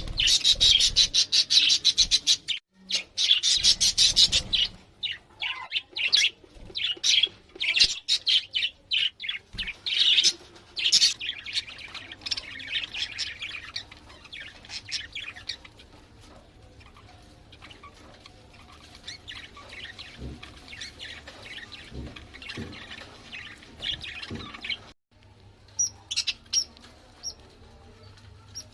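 Budgerigars chirping and chattering, dense and loud for the first ten seconds or so, then fainter. The sound cuts out briefly near the end before a few more single chirps.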